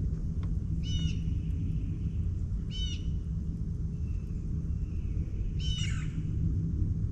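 A bird gives a short, harsh call three times, roughly every two to three seconds. Under it runs a steady low rumble of wind on the microphone and a faint, steady low hum.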